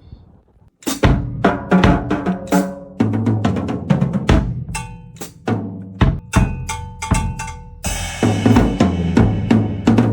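Music led by a drum kit, kick, snare and cymbals in a steady beat over pitched backing notes, starting suddenly just under a second in; the cymbals grow denser about eight seconds in.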